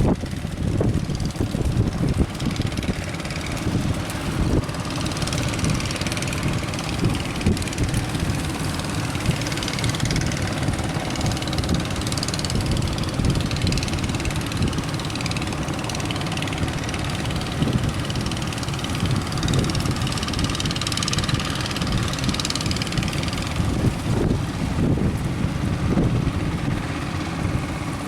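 Boat engine running steadily under strong wind buffeting the microphone, with the rush of rough sea.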